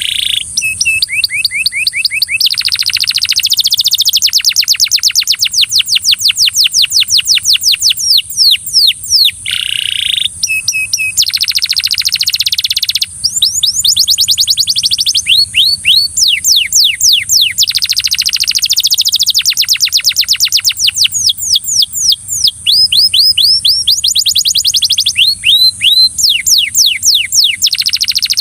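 Belgian canary singing a long, loud song of fast rolling trills, each made of quick repeated notes, the phrases changing every few seconds with only brief pauses.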